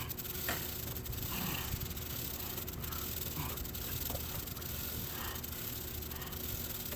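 A brush scrubbing a degreaser-soaked motorcycle chain in repeated strokes, about one a second, over a steady hiss.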